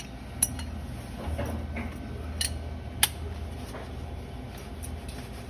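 A few sharp metallic clicks and light taps from hand tools and copper pipe being handled during plumbing work, the loudest about three seconds in, over a low steady hum.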